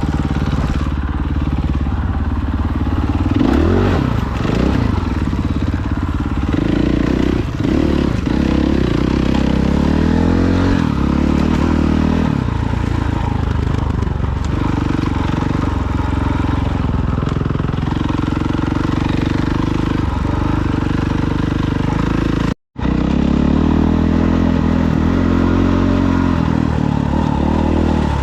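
Dirt bike engine running under way, its revs rising and falling as the throttle is worked. About two-thirds of the way through, the sound drops out completely for an instant, then resumes.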